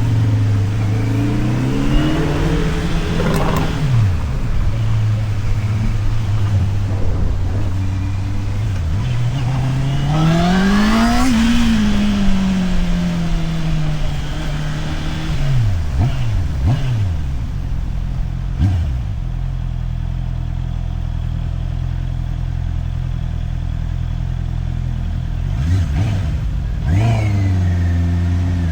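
Motorcycle engine idling, then rising in pitch as it accelerates and falling away again several times, with a long steady idle in between.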